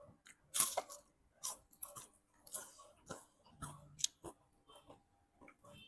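A series of short, crisp snipping or cutting sounds at an uneven pace, about a dozen in all, the loudest about half a second in.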